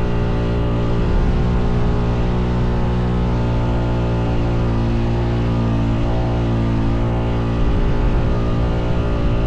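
Honda Foreman 520 ATV engine running at a steady speed under load while towing another ATV, with slight changes in pitch around the middle and near the end.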